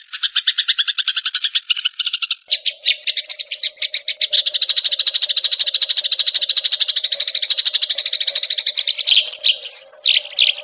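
A small songbird's rapid chattering call, about ten short high notes a second, pausing briefly about two seconds in and then running on denser over a faint low hum, breaking into a few separate chirps near the end.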